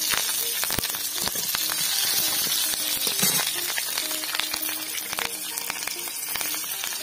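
Green chillies and whole spices sizzling in hot oil in a metal kadai (wok). A flat metal spatula stirs them, scraping and clicking against the pan now and then.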